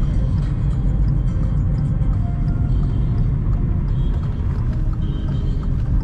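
Car on the move, heard from inside the cabin: a steady low engine and road rumble, with music playing underneath.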